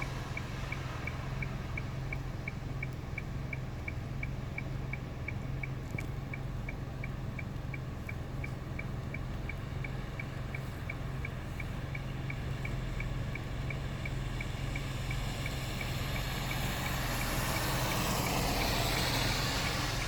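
Waterfall water pouring and splashing in a steady rush, with a deep rumble underneath. A faint high tick repeats about three times a second throughout.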